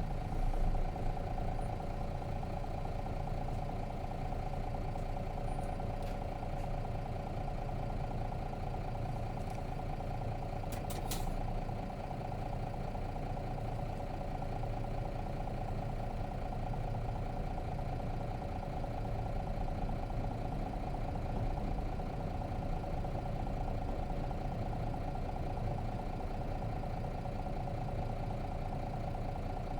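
Nissan Diesel FE6 inline-six diesel engine of a mid-size route bus idling steadily, heard from inside the cabin, with a few sharp clicks about 11 seconds in.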